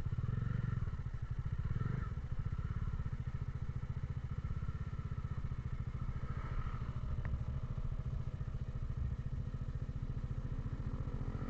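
Motorcycle engine running steadily at an even speed, its rapid firing pulses dominating the sound.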